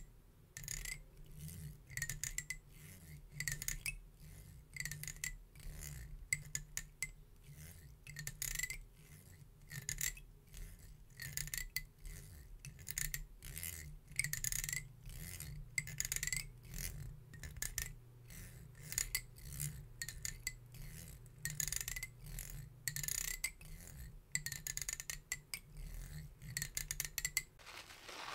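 A comb's teeth being stroked close to the microphone, giving repeated short scratchy rasps about once a second.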